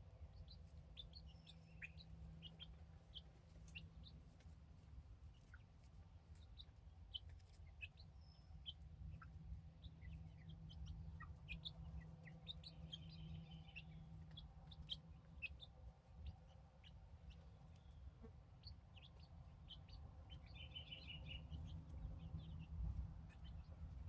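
Young chicks peeping faintly: many short, high cheeps scattered throughout, over a low steady rumble.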